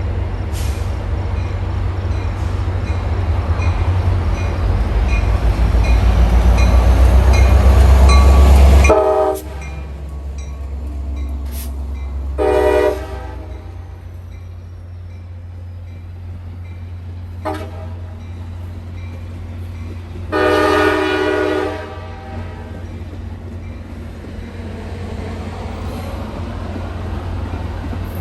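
A train rumbling past, its heavy low rumble building for about nine seconds and then dropping off sharply, followed by four horn blasts over the continuing rumble: two short ones, a half-second one, and a longer one of about a second and a half near the end.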